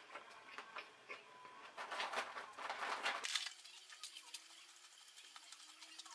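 Close-up chewing and mouth sounds of a man eating a McDonald's Grand Mac burger: irregular wet clicks and smacks, busiest in the first three seconds, then fainter.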